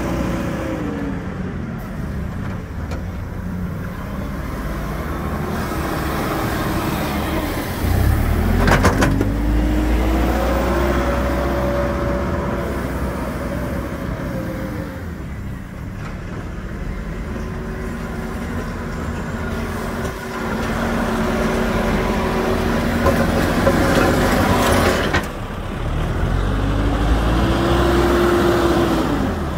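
Hidromek 102S backhoe loader's diesel engine working, its pitch rising and falling again and again as the machine works under load. Twice a short, sharp noise cuts through, the second one near the end.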